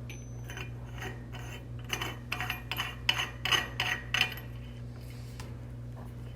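Cap of a Victor FPR160 acetylene regulator being set back on and threaded by hand onto the regulator body: a run of small metal-on-metal clicks and scrapes, busiest in the middle and stopping about four seconds in, over a steady low hum.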